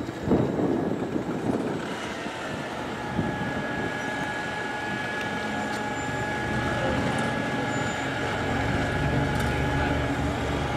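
A vehicle or engine running steadily with a low hum and a thin steady whine, growing a little louder toward the end. Irregular knocks and rustling come in the first two seconds.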